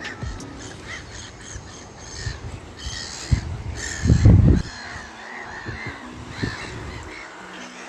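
Birds calling again and again in short, harsh calls. A loud, low rumble comes a little after four seconds in and is the loudest thing heard.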